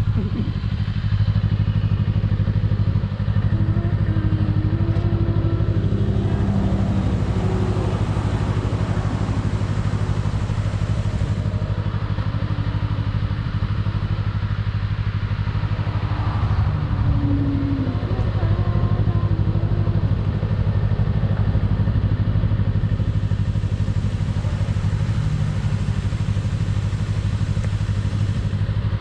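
Kawasaki Z250 motorcycle with an aftermarket SeaPro muffler cruising at a steady speed: an even, unchanging exhaust drone with wind rush, heard from the rider's seat.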